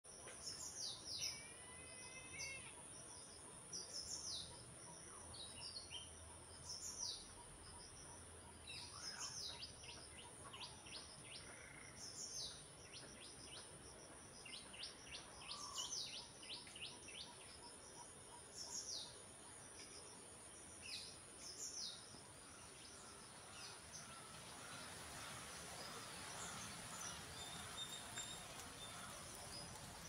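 Small wild birds chirping: short, high, falling notes every second or two, with a few quick runs of rapid ticking, over a steady high-pitched buzz. The calls thin out after about 22 seconds as a soft hiss rises.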